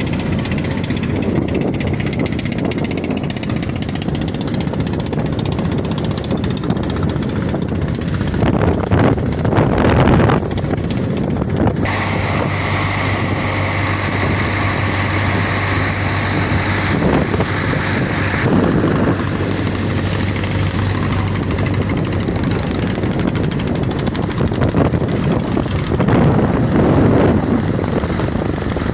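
A motor runs steadily under heavy wind noise on the microphone. About twelve seconds in a steady hum joins it and stops about six seconds later.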